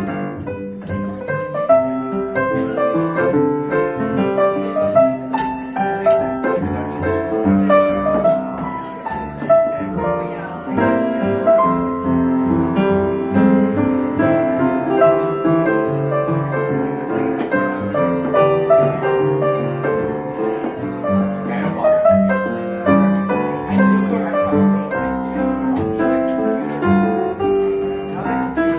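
A small live jazz band playing a jazz standard, with piano carrying chords and melody.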